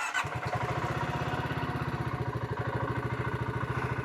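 Single-cylinder 650 cc engine of a BSA 650 Scrambler motorcycle coming in suddenly and settling into an even idle, a steady thump of about a dozen beats a second.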